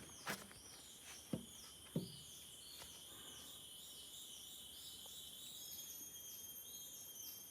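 Faint chorus of forest insects: a steady high buzz with short falling chirps repeating a few times a second. A few footsteps on the trail in the first two seconds.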